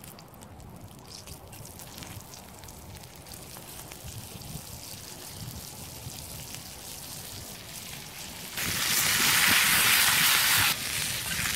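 Food frying in a cast-iron skillet on campfire embers: a quiet sizzle with small crackles, then a loud hissing sizzle for about two seconds near the end that starts and stops abruptly.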